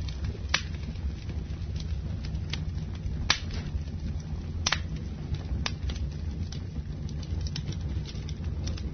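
Wood campfire burning: a steady low rumble with sharp, irregular crackles and pops about once a second, the loudest about three seconds in.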